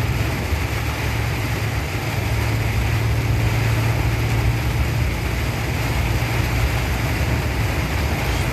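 Heavy rain falling steadily, with a steady low engine hum underneath.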